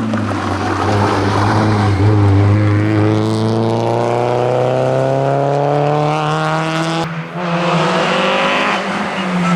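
Rally car engine pulling hard at full throttle, its note climbing steadily for several seconds. It breaks off briefly at a gear change about seven seconds in, then pulls again.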